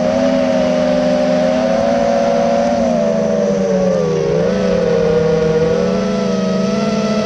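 Sport motorcycle engine running at high revs, heard onboard over wind noise; its pitch dips about four seconds in and then climbs again.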